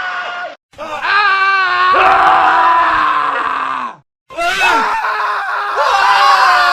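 Men screaming: separate long, loud male screams spliced one after another, with wavering pitch, broken by two short dead silences about half a second in and about four seconds in.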